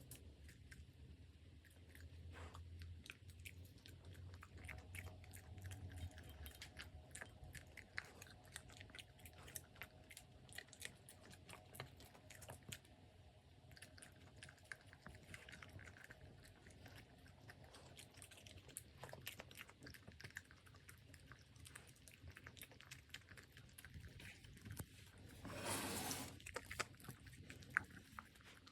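A puppy eating, chewing and crunching its food in a quiet, rapid run of small clicks, with one louder scuffing noise lasting about a second near the end.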